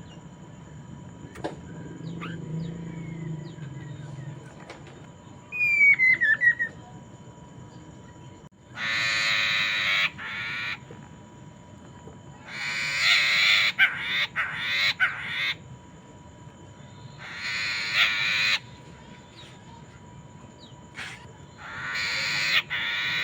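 Poksay Mandarin laughingthrush giving harsh, raspy chattering calls in four bouts of one to three seconds each, after a short falling whistle.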